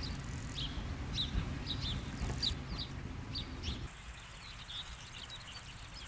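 Small songbird chirping repeatedly in short, high, sweeping notes over a low wind rumble, which drops away about four seconds in.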